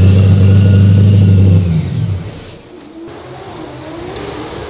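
A BMW drift car's engine running steadily at a fixed speed, then switched off about a second and a half in, its note sinking and dying away.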